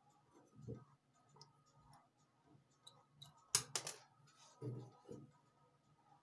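Small metal tools and parts being handled on a jeweler's bench during an earring repair: scattered light clicks and ticks, two sharp clicks about three and a half seconds in, and a few dull low knocks.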